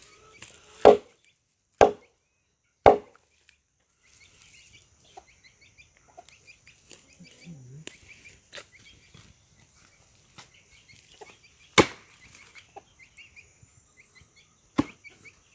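Sharp, separate knocks of an axe on wood: three about a second apart near the start, then two more spaced out later. Chickens cluck faintly in between.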